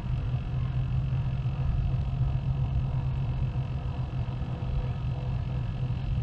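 Steady low drone of distant industrial machinery, a continuous hum with faint steady whining tones above it and a rumbling low end.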